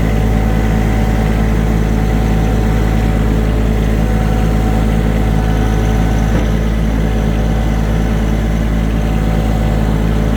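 Small farm tractor's engine running steadily under load while it drags a trailer by a chain.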